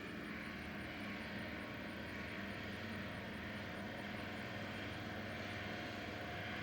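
Old Ford Model T's four-cylinder engine running as the car drives past. It makes a steady low hum that grows slightly louder.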